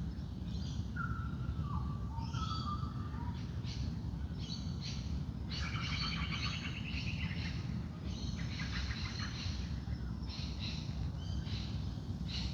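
Dawn chorus of several wild birds singing and calling at once: overlapping chirps, trills and short whistled phrases, over a steady low background rumble.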